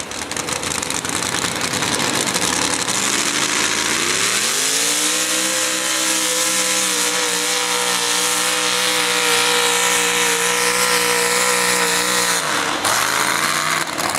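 Mini rod pulling tractor's engine at full throttle: the revs climb steeply about three to five seconds in, hold high and steady through the pull, then drop off sharply near the end as the run ends.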